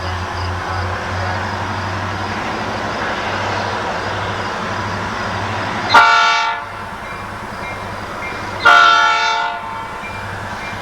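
Freight train diesel locomotive's air horn sounding two short blasts about three seconds apart, over the steady rumble of the train.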